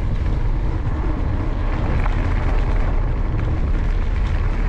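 Steady low rumble of wind buffeting the action-camera microphone, mixed with tyre and trail noise from a mountain bike being ridden.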